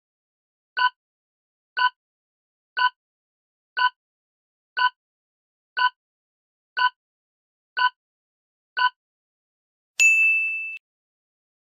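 Quiz countdown timer sound effect: about ten short beeps, evenly spaced once a second. Near the end comes a bright bell ding that rings out for under a second, marking the end of the countdown.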